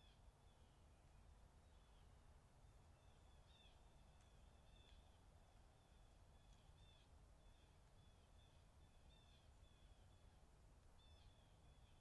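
Near silence: faint, high, short bird chirps repeating every second or so over a low background rumble.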